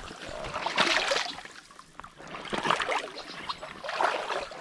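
Moving stream water, with irregular splashing that rises and falls in swells.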